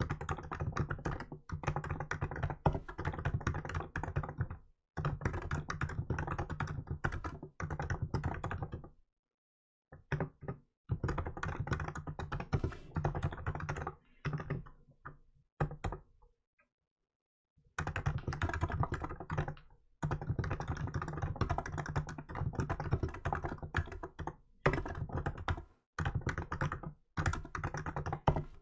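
Typing on a Hansung GK868B electrostatic capacitive keyboard: fast, continuous runs of keystrokes, broken by short pauses about 9 seconds in and again around 16 to 17 seconds.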